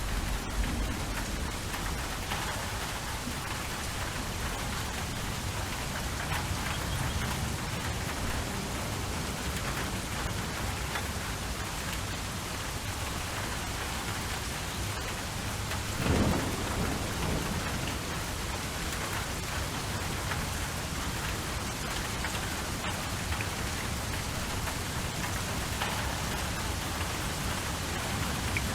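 Steady rain falling, with thunder rumbling low underneath and one louder roll of thunder a little past halfway.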